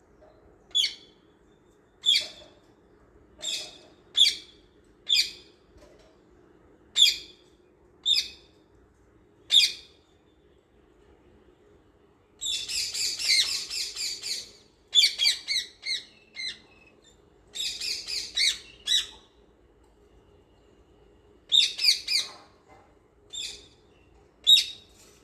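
Small birds calling. Single sharp, high chirps or squawks come about once a second, then a dense burst of chattering calls lasts about two seconds near the middle, followed by further clusters of calls.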